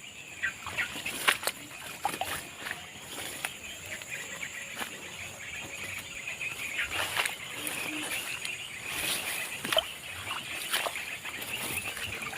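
Twigs and leaves crackling and snapping underfoot as someone pushes through undergrowth, irregular sharp cracks at a walking pace, with a steady high chirring in the background.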